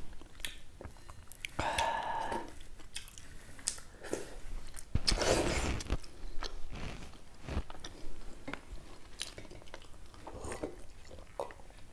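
Close-up wet chewing and lip smacking of people eating millet dhido and chicken curry with their hands, with irregular clicks and a few crunchy bites.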